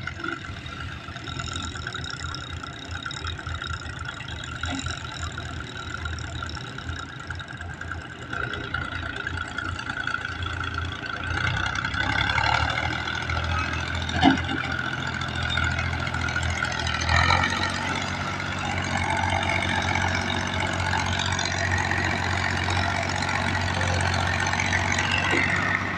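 Tractor diesel engine running steadily and growing louder from about halfway through, with a sharp knock about 14 seconds in and another a few seconds later.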